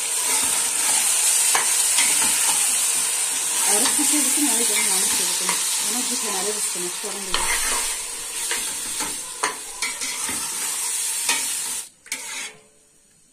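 Grains and vermicelli sizzling in hot oil in a stainless-steel pot while a metal spoon stirs and scrapes against the pot. The sizzling cuts off abruptly near the end.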